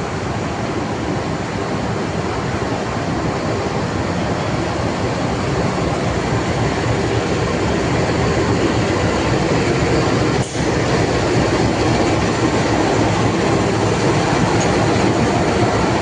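Train running through the station close by: steady, loud rolling noise of wheels on rail that grows slightly louder, with a momentary drop in sound about ten seconds in.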